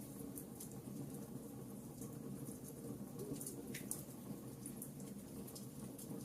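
Wood fire crackling in a fireplace: a steady low rumble of burning with scattered small crackles and pops throughout, one slightly stronger pop about four seconds in.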